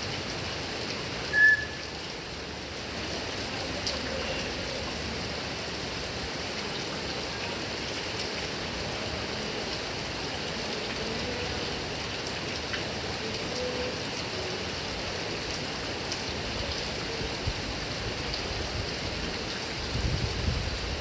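Heavy rain falling steadily on grass and trees, with one brief high chirp about a second and a half in and a few low thumps near the end.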